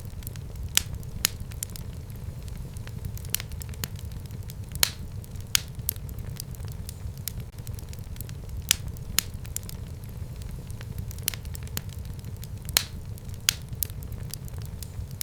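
Wood fire burning in a home fireplace: a steady low rumble of flames, with sharp pops and crackles from the burning logs at irregular intervals.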